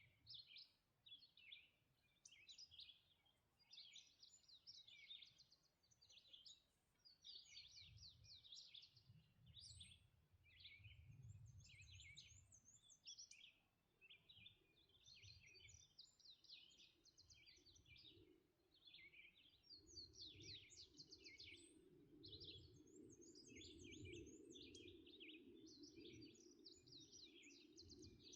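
Faint dawn chorus of several songbirds, with short overlapping chirps, trills and warbled phrases throughout. A low steady drone comes in about halfway through and runs on under the birds.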